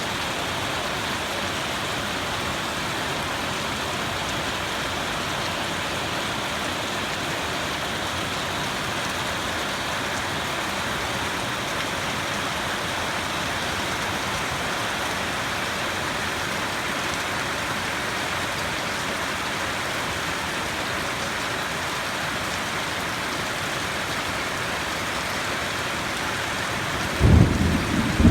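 Steady rain falling, then near the end a sudden loud clap of thunder.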